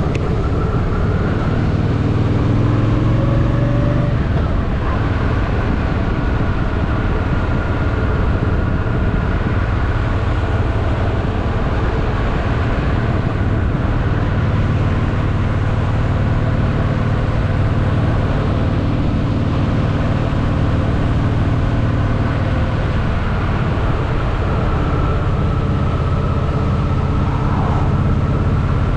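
Honda Shadow VT750's V-twin engine running under way, with rushing wind noise over it; the revs climb in the first few seconds, then the engine runs steadily.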